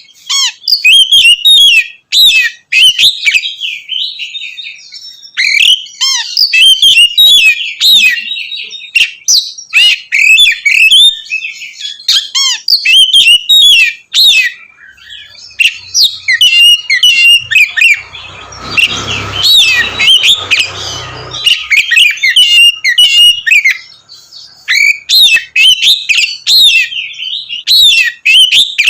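Oriental magpie-robin (kacer) singing loudly in a long run of fast, varied phrases, broken by brief pauses. Roughly two-thirds of the way through, a low rumble of noise lasting a few seconds sits under the song.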